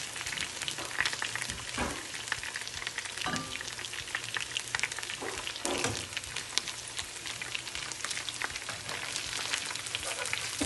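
Chicken pieces shallow-frying in hot coconut oil: a steady crackling sizzle. A wire spider strainer knocks and scrapes against the pan a few times as pieces are lifted and turned.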